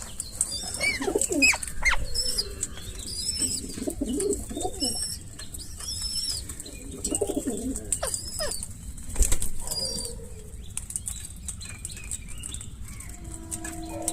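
Parrots calling with repeated high chirps and whistles, mixed with lower cooing calls and wing flapping. A sharp loud click comes about nine seconds in, and a steady tone sounds near the end.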